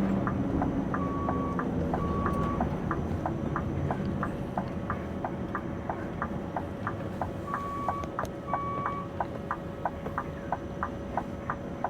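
Scania V8 truck engine running low and steady, heard from inside the cab, while the turn-signal relay clicks in a steady alternating tick-tock. A few short dashboard beeps sound near the start and again around the middle.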